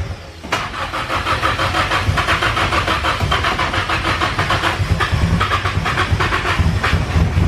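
Nissan SR20 inline-four engine cranked on the starter, catching and running with a fast, uneven beat. This is the swapped engine's first start.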